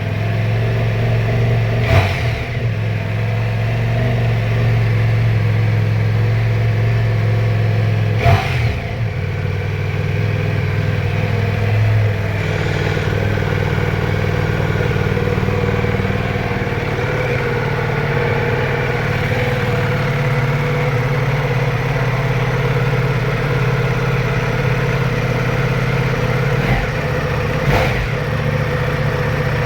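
Ducati Diavel V4 RS's V4 engine running steadily through its stock exhausts. Four short throttle blips come at intervals, and the engine note shifts slightly about twelve seconds in.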